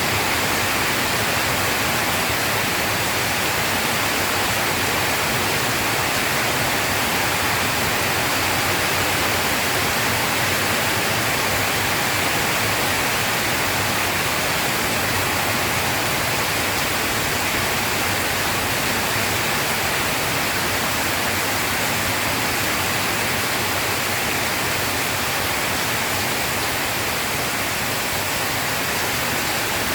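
Steady rain falling, an even hiss with no breaks and no thunder claps.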